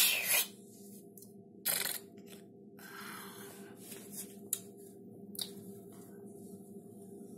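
Rustling and handling noises: a loud burst at the start and another about two seconds in, then lighter rustles and a few clicks over a steady low hum.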